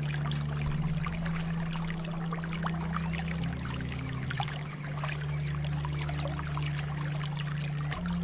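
Water trickling and bubbling steadily, layered over a low held drone whose notes shift in pitch every few seconds.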